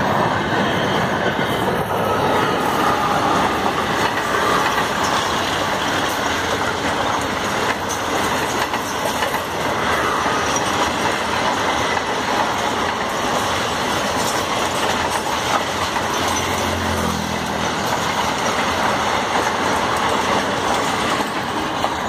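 Passenger train coaches rolling past close by: a steady rush of steel wheels on the rails, with rapid clattering as the wheels cross rail joints.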